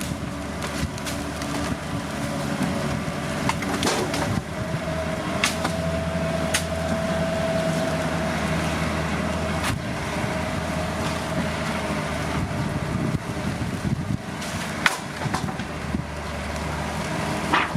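Heavy diesel earthmoving machinery running steadily, with a held whine in the middle and a few sharp knocks scattered through.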